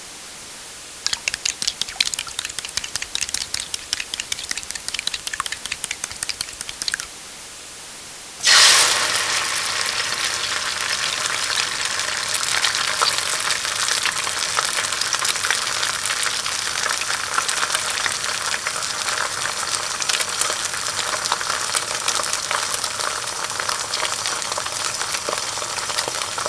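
A rapid series of sharp taps for about six seconds, then, after a short pause, food hits hot oil with a sudden loud burst and goes on sizzling and crackling steadily in the pan.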